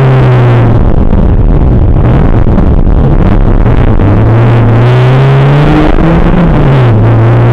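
Škoda Felicia rally car's 1.3-litre four-cylinder engine heard loud from inside the cabin, driven hard. Its pitch falls in the first second or two, climbs again from about four seconds in, and dips briefly near the end before rising once more.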